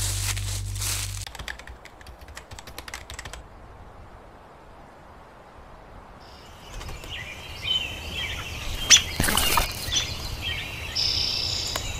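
Small birds chirping and calling outdoors in the second half, with one loud sharp noise among them about nine seconds in. Before that, rapid crackling clicks follow the tail end of background music, then a quieter stretch.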